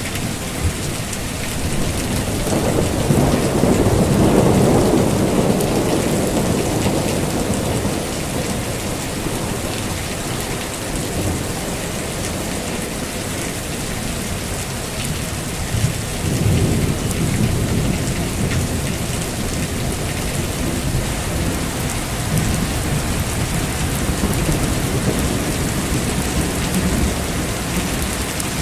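Heavy rain falling steadily, with rolling thunder rumbling through it: a long swell of thunder about two seconds in that fades by about seven seconds, and more rumbles from about sixteen seconds in.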